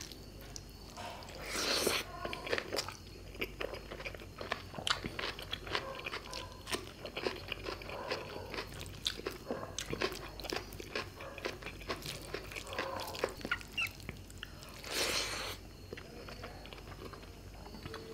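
Close-miked mouth sounds of a person eating fish curry with rice: many short wet smacks and clicks of chewing and biting. Two longer, louder noisy bursts come about a second and a half in and again near the end.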